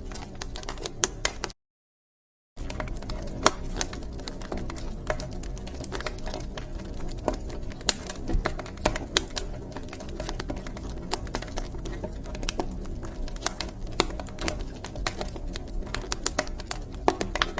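Wood fire in a fireplace crackling and popping irregularly over a steady low rumble of the flames. The sound cuts out to silence for about a second, near two seconds in.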